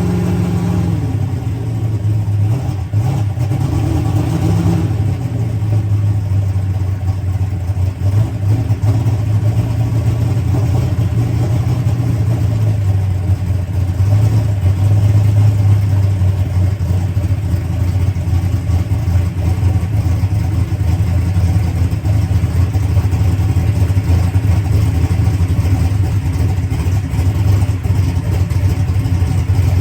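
Turbocharged drag race car engine idling steadily, fed by a newly fitted Enderle fuel pump. The revs rise and fall briefly in the first few seconds, then hold even.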